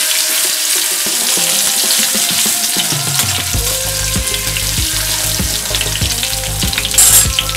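Garlic paste sizzling in hot oil with mustard seeds and cumin in a kadhai, stirred with a perforated spatula that scrapes the pan in short strokes. The garlic is being fried to drive off its raw smell. A brief louder hiss comes about seven seconds in.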